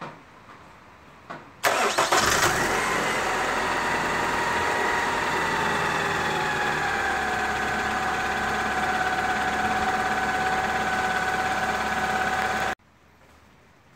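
Toyota Camry 2.2-litre four-cylinder engine, freshly refilled with oil, cranks briefly and starts about two seconds in, then idles steadily, the idle settling slightly lower after a few seconds. It is switched off suddenly about a second before the end.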